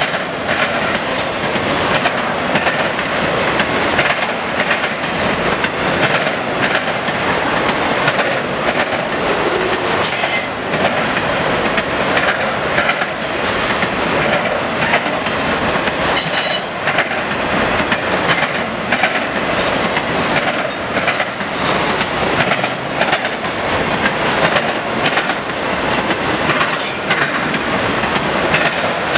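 Autorack freight cars rolling past, their steel wheels clattering steadily over the diamond crossing and rail joints. Brief high-pitched wheel squeals cut in every few seconds.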